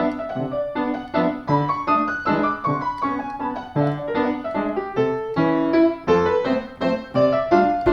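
Background music: piano playing a melody over chords in a steady rhythm.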